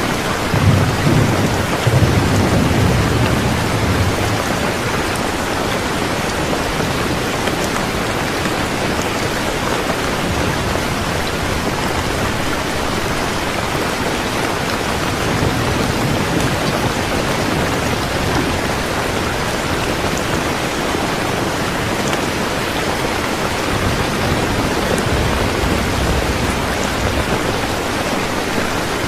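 Steady, heavy rain, with low rolls of distant thunder: the strongest comes about a second in, and fainter ones follow near the middle and near the end.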